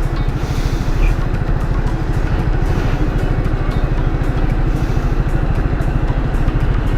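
Yamaha R15 V3's 155 cc single-cylinder engine running steadily, its exhaust pulses coming evenly with no revving up or down.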